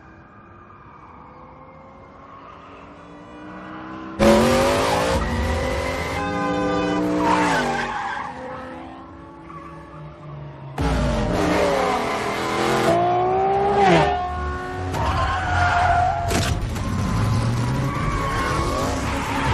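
Film sound effects of a muscle car's engine revving hard at speed, its pitch climbing and falling, with tyre squeals. It starts faint, then cuts in loud suddenly about four seconds in and again near eleven seconds.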